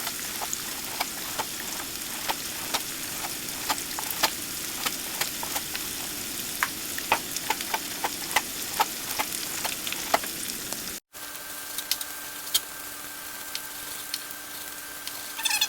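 Bell peppers sizzling in olive oil in a frying pan: a steady hiss with frequent sharp clicks scattered through it. About 11 s in the sound cuts out for an instant, then the sizzle carries on more quietly under a faint steady hum.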